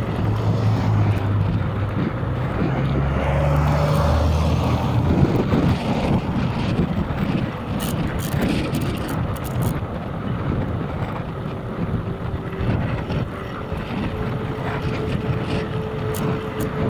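Strong wind buffeting the microphone, a loud, steady rumbling noise, with a low hum that steps up in pitch a few times during the first five seconds.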